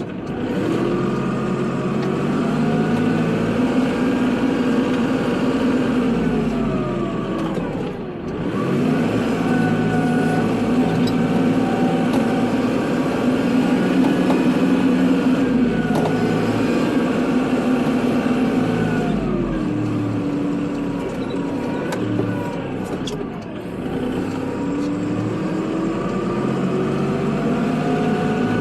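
Kubota tractor's diesel engine running while plowing snow. Its speed sags and climbs back several times, dropping most about eight seconds in and again around twenty and twenty-three seconds in.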